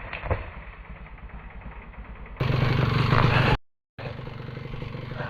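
Two-stroke off-road engine running at a steady speed with a low, even note. It starts about halfway through, after a quieter stretch with a few sharp clicks, cuts out briefly, and returns a little quieter.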